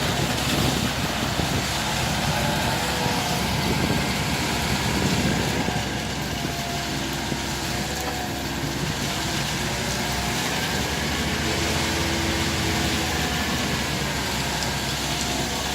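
An engine running steadily, with no change in pitch or loudness.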